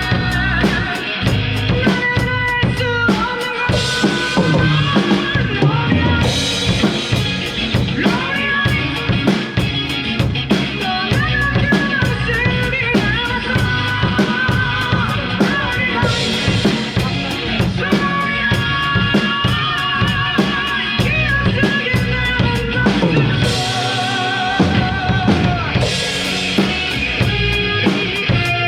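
A drum kit played through a rock song with bass drum, snare and steady cymbal strokes. It goes along with the rest of the music, including a held, wavering melody line, during a band rehearsal.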